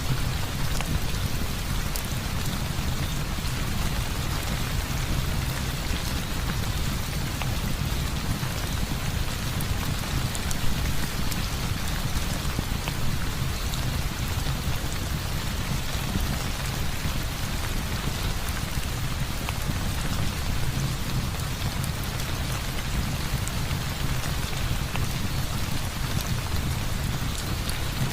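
Heavy rain falling steadily, with a steady low rumble underneath and faint scattered ticks of drops.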